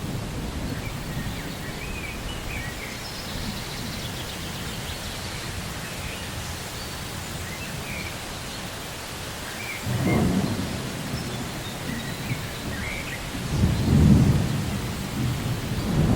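Rainforest thunderstorm: steady rain with deep rolls of thunder about ten seconds in, again about fourteen seconds in and near the end, while birds chirp in the background.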